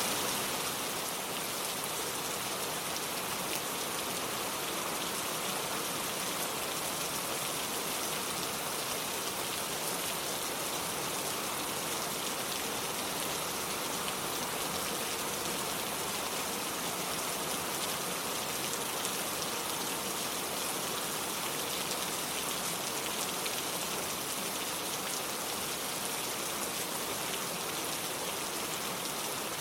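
Steady rain falling: a dense, even patter of raindrops that holds constant, with no thunder or separate louder events.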